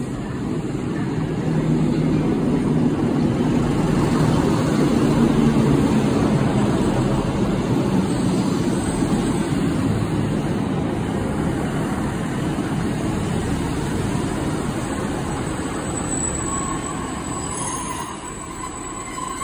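Multiple-unit passenger train running into the platform, a heavy rumble of wheels and underfloor engine as the carriages pass close by and slow. Near the end a thin squeal starts up as it brakes to a stop.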